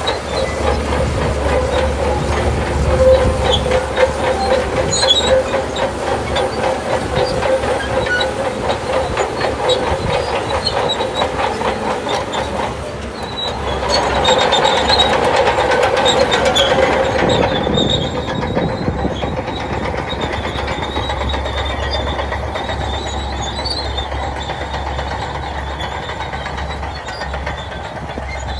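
Shantui DH17C2 crawler bulldozer at work: engine running with a fast clatter from the steel tracks. The sound dips briefly about halfway through, swells again, then eases off and steadies for the rest.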